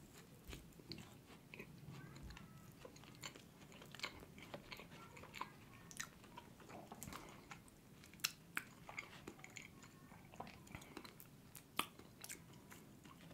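A person chewing a soft donut close to the microphone: quiet, wet chewing with small mouth clicks, and a few sharper smacks in the second half.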